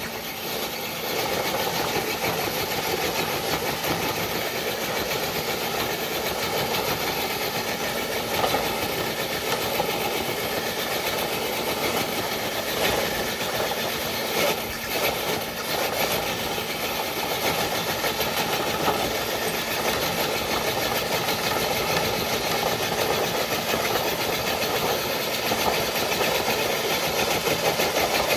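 Electric motor and geared drivetrain of a scale RC crawler truck running steadily under load as it pulls a dead-weight sled loaded with bricks.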